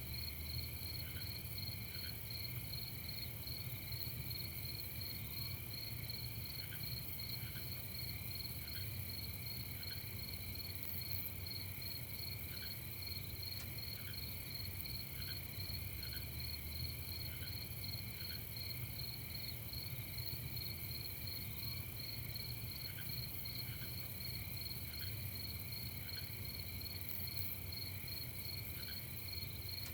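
Night chorus of crickets: a steady, rapidly pulsing trill at several high pitches at once, with fainter, lower single chirps every second or two and a low steady rumble underneath.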